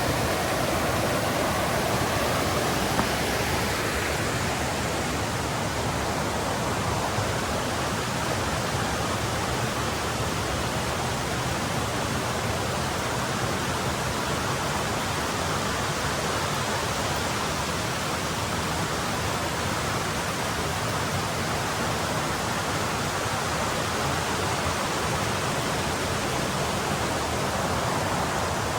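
Mountain river rushing over rocks, a steady full rush of water.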